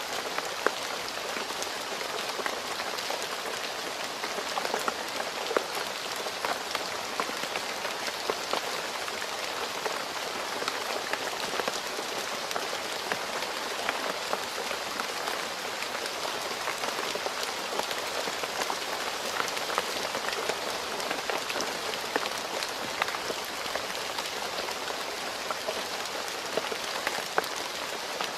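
Steady rain falling on a road surface: a dense, even hiss with many sharp individual drop splashes scattered throughout.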